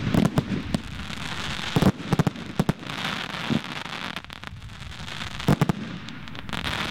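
Fireworks going off: clusters of sharp bangs at the start, about two seconds in, and again near the end, with a steady crackling hiss in between.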